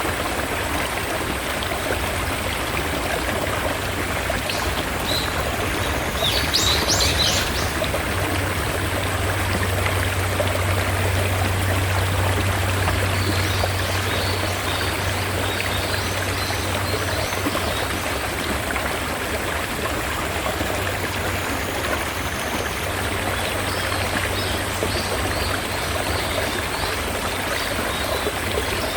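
Mountain stream water rushing steadily. A bird gives a quick burst of high chirps about seven seconds in, with fainter chirps later.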